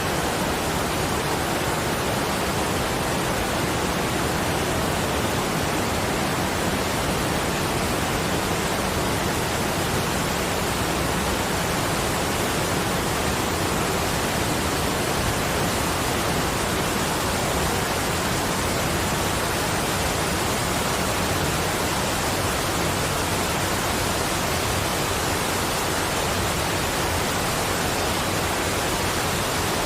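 Steady, even rushing of falling water at a constant level, with no separate drips, splashes or chimes.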